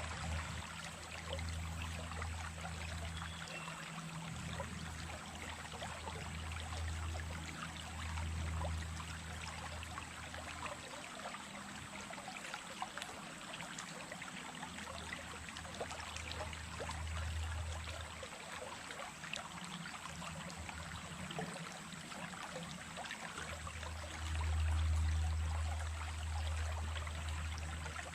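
Small creek running steadily, a continuous babble of water over stones, with a low rumble that swells and fades several times, loudest near the end.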